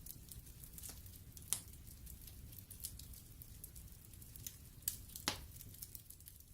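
Wood fire burning in a fireplace: logs crackling with irregular small snaps over a low steady rumble of flame. Two louder pops stand out, one about a second and a half in and another near five seconds in.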